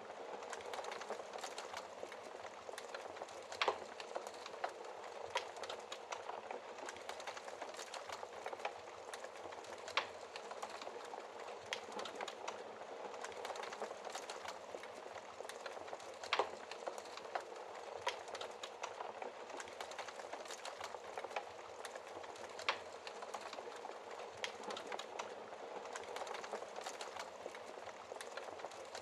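Wood fire burning in a fireplace: a steady hiss of flames with constant small crackles and an occasional louder sharp pop, four in all.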